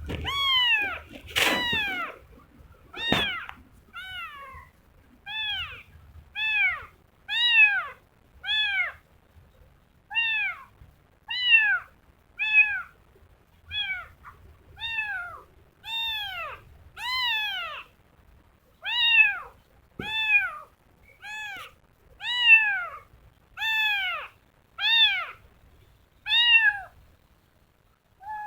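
Kitten meowing over and over, short high calls that each rise and fall in pitch, about one a second.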